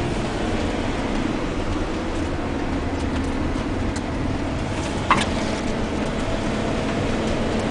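Steady rumble and road noise of a moving vehicle, with one brief sharp click about five seconds in.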